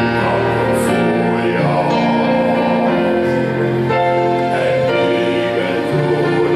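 Gospel vocal group singing with instrumental accompaniment, long held chords in several voices.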